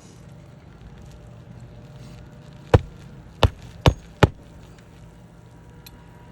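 Hammer driving a roofing nail through asphalt shingles: four sharp strikes in quick succession about midway, each a little closer to the last.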